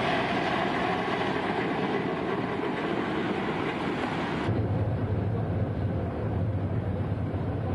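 Passenger train running on the rails: a steady rush of noise that switches abruptly a little over halfway through to a lower, steady hum.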